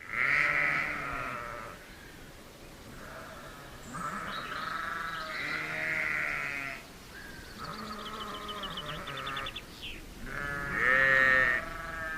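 Sheep bleating: about six wavering calls of one to two seconds each, some overlapping at different pitches as if from several animals.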